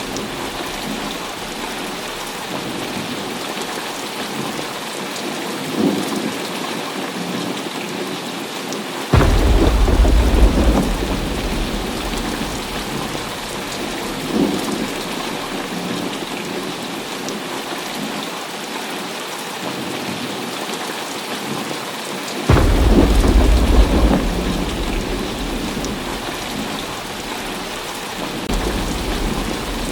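Heavy rain falling steadily, with thunder rolling through it. Two loud thunderclaps break in suddenly, about a third of the way in and again about three quarters of the way in, each rumbling deep for a few seconds before fading back into the rain. Fainter rumbles come in between.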